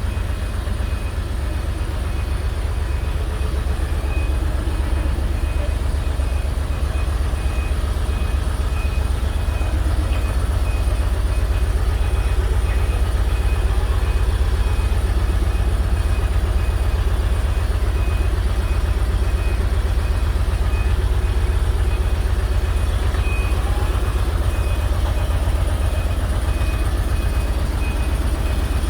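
Heavy vehicle running with a steady low rumble, a high-pitched beep repeating at even intervals over it.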